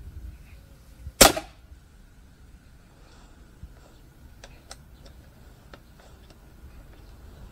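Snowpeak P35X pre-charged pneumatic air rifle firing a single shot about a second in: one sharp crack with a short ringing tail. A few light clicks follow a few seconds later.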